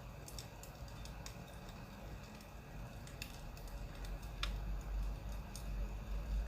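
Burning firewood crackling, with irregularly spaced small pops and snaps over a low, steady rumble.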